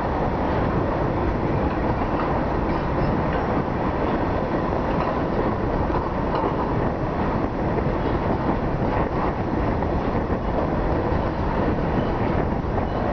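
Container freight train's loaded wagons rolling steadily past on the rails, the wheels making a continuous rumble.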